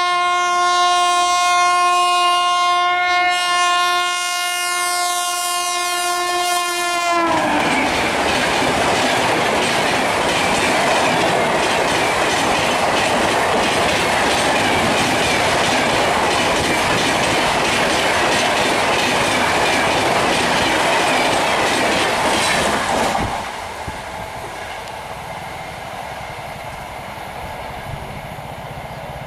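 Indian express train sounding one long horn blast of about seven seconds, its pitch dropping at the end as it passes. The loud rush of the coaches running by at high speed follows for about sixteen seconds, then falls away to a quieter rumble as the train recedes.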